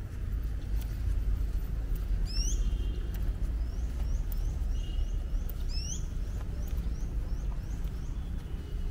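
Birds calling in forest: two loud upward-sweeping whistles, about two and a half and six seconds in, with runs of short high chirps, about two a second, between and after them. Under them runs a steady low rumble.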